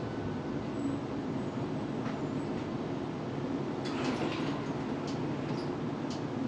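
Steady rumble of a tram running along its rails, heard from inside the car, with a few light clicks and rattles from about four seconds in.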